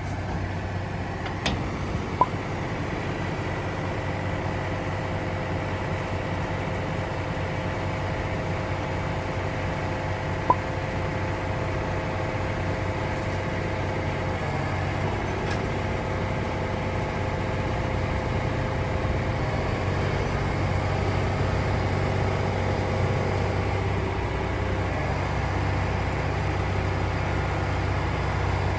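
Mini excavator's diesel engine running steadily, getting somewhat louder in the second half, with two sharp clicks, one about two seconds in and one about ten seconds in.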